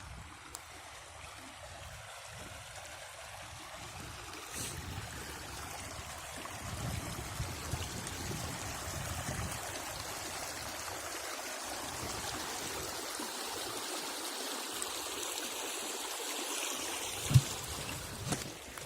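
A steady rushing noise that swells slowly, with one sharp thump near the end.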